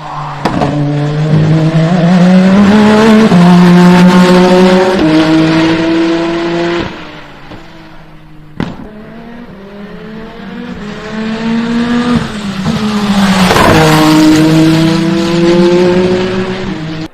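Peugeot 9X8 hypercar's twin-turbo V6 accelerating hard through a series of upshifts, its note climbing and stepping down at each gear change. This happens in two separate runs, with a single sharp click between them.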